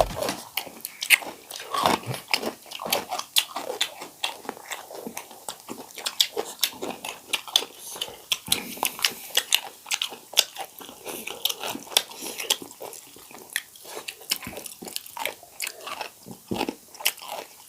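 Close-up eating sounds from a meal of paneer biryani: chewing and biting, with many sharp, irregular wet mouth clicks and occasional crunches.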